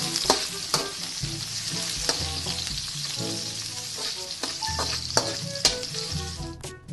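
Chopped onions sizzling in hot oil in a wok, with a steady hiss and irregular clacks and scrapes of a utensil against the metal pan as they are stirred.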